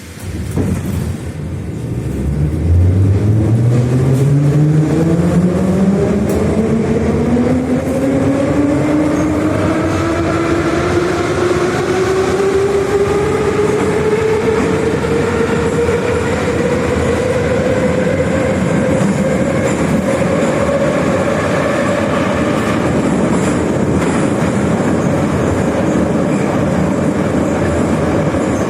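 81-717.5M/714.5M "Nomernoy" metro train pulling away and accelerating. About two seconds in, the traction motors' whine starts low and rises steadily in pitch for nearly twenty seconds, then levels off as the train reaches running speed, over a constant rumble of wheels on rail.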